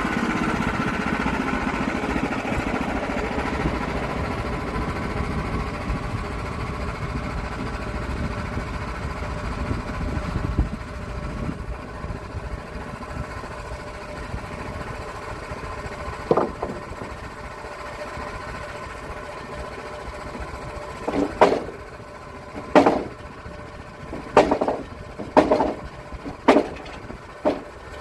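Sawmill engine running steadily, gradually getting quieter over the first half. In the last part there are several sharp knocks, about one or two a second.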